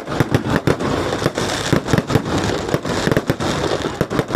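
Fireworks going off in a dense, rapid crackle of pops and bangs, many each second and without a pause.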